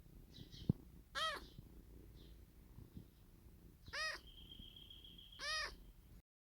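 A cat meowing three times: short, arching cries about a second in, at about four seconds, and near the end.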